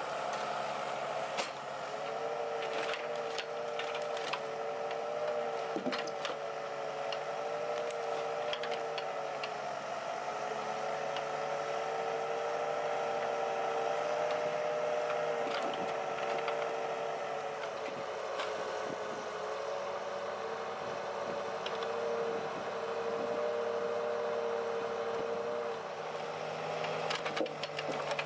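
A heavy machine's engine running steadily under load, with a wavering whine throughout and scattered knocks and clanks.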